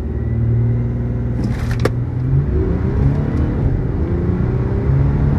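Audi 3.0 TDI V6 diesel engine pulling hard under full acceleration through its automatic gearbox, with a brief break about a second and a half in, then revs climbing steadily again.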